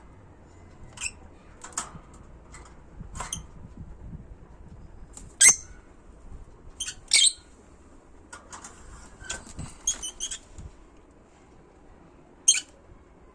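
Small pet cage birds giving short, sharp, high-pitched chirps and squawks, a dozen or so scattered irregularly, the loudest about halfway through and near the end.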